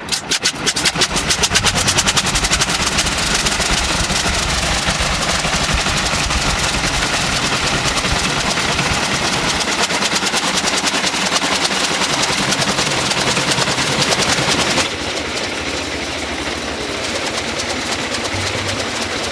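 Adams-Farwell rotary engine running, firing in rapid, even pulses. About fifteen seconds in the sound changes abruptly to a quieter, smoother engine note.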